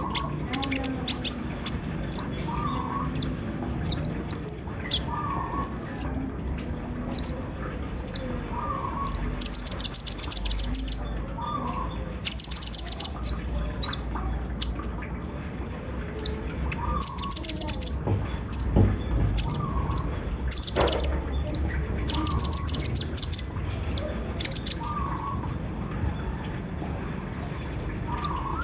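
Small sunbird singing: a stream of short, high-pitched chirps broken by rapid, dense trills of a second or two, the machine-gun rattle that bird keepers call 'sewing machine'. A softer, lower note repeats about every two seconds underneath.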